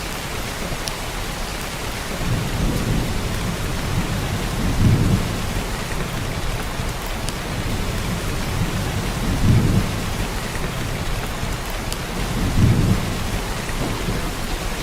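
Heavy downpour of rain, a steady hiss, with low rolls of thunder swelling up several times, strongest about five, nine and a half and thirteen seconds in.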